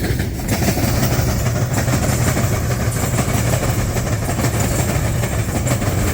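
Freight train rolling past close by: a steady low rumble with the wheels clacking over the rail joints.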